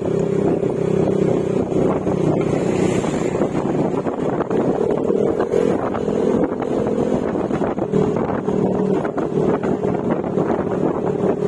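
Yamaha Mio Gravis scooter's single-cylinder engine running through an aftermarket Akrapovic exhaust with silencer at a steady cruising speed, its pitch holding nearly even. Wind buffets the microphone throughout.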